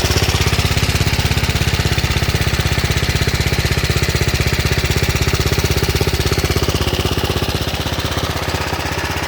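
A 156cc Tecumseh single-cylinder engine on a vintage mini bike, fitted with an aftermarket carburetor in place of the stock Tecumseh carb, running steadily with a fast, even pulsing. It eases off slightly near the end.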